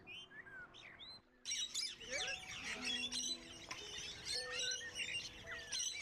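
Many small birds chirping. A few short falling chirps come first, then about a second and a half in a dense chorus of overlapping chirps starts suddenly and keeps going.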